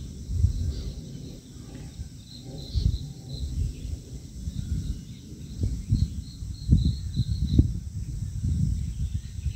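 Outdoor nature ambience: insects chirping in a steady high drone with short repeated high chirps, under low gusty rumbling of wind on the microphone that swells loudest about three seconds in and again around seven seconds.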